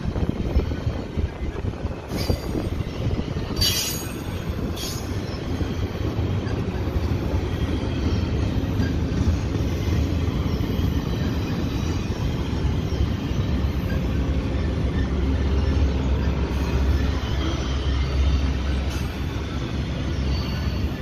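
Double-stack intermodal freight train rolling past close by: a steady rumble of wheels on rail. A few short, high-pitched wheel squeals come between about two and five seconds in.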